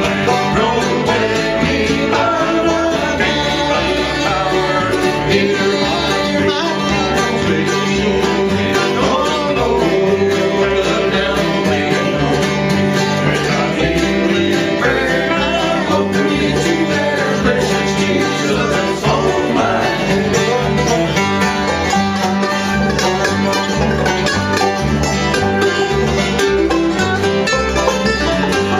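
Live bluegrass gospel band playing a song, with acoustic guitar and banjo.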